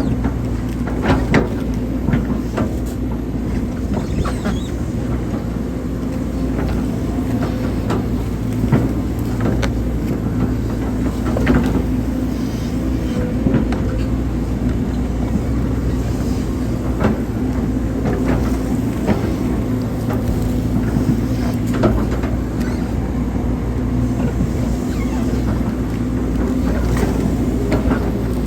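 Hydraulic excavator's diesel engine running steadily under working load, with scattered short knocks and clanks from the machine as it digs.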